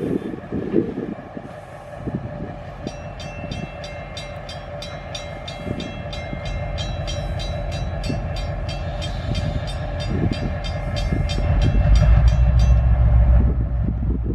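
Train passing: a steady low rumble that grows loudest near the end, with a rapid, even ticking about three times a second through most of it.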